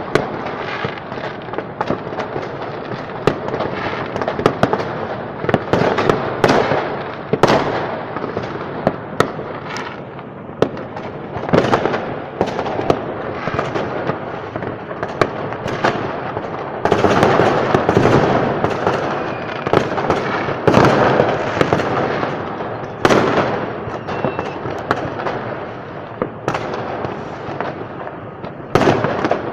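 Massed New Year's Eve fireworks going off across a city: a continuous din of crackling with many sharp bangs scattered through it, some louder bursts standing out.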